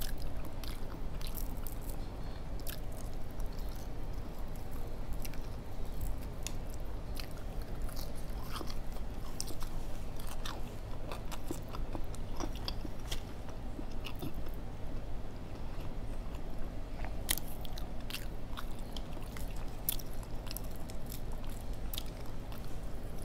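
Close-miked chewing and biting of fried whole flounder, with many short crisp clicks and crunches scattered throughout.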